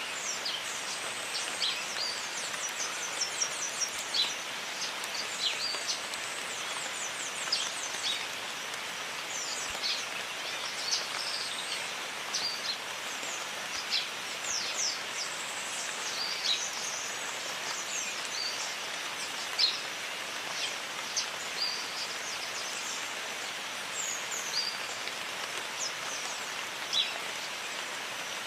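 Steady jungle rain hissing evenly, with birds calling over it throughout in short high chirps, quick falling whistles and brief rapid trills.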